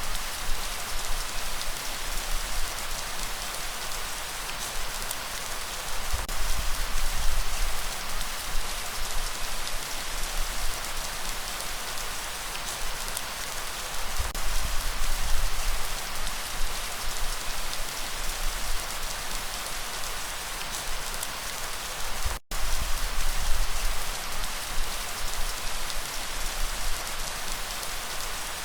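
Steady rain falling, a dense even patter of drops on surfaces. The sound cuts out for a split second about three quarters of the way through.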